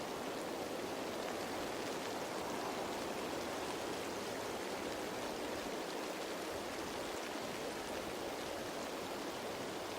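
Steady rain falling on leaves: an even, unbroken hiss of countless drops.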